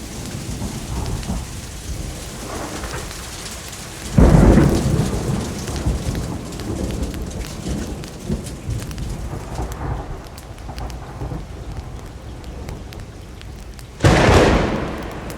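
Steady rain with two sudden claps of thunder, one about four seconds in and one near the end, each rumbling away over a second or two.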